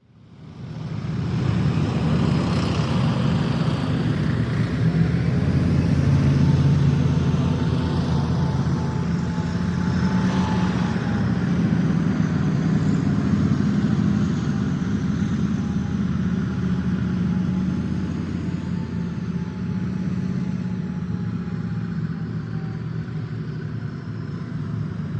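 A small motor running steadily with a low rumble and a faint wavering whine, easing off slightly toward the end.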